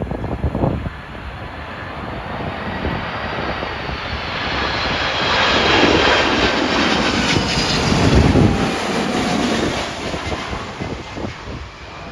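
Jet airliner passing low overhead on final approach to land, its engine noise building to a peak about six to nine seconds in and then fading, with the engine whine falling in pitch as it goes by. Wind gusts buffet the microphone.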